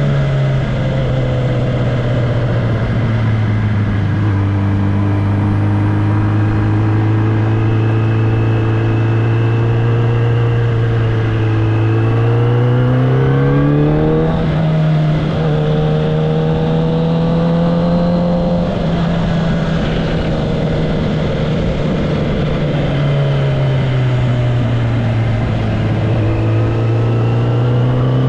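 Kawasaki ZX-10R's inline-four engine and exhaust running under way, mostly at a steady pitch. The revs climb about halfway through, ease off in the last third and rise again near the end.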